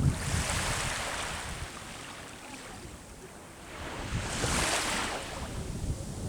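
Sea waves washing on the shore: one wave's wash dies away over the first few seconds, then the next wave breaks and swells up about four seconds in. Some low wind rumble on the microphone near the start.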